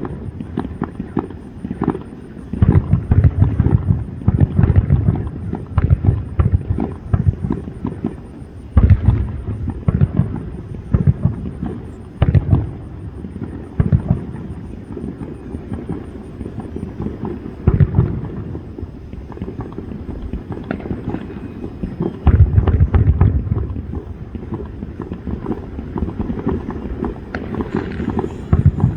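Aerial fireworks show: a rapid string of sharp bursts and crackles with heavy low booms that come in clusters, the biggest volleys near the start, a few seconds in, and about three quarters of the way through.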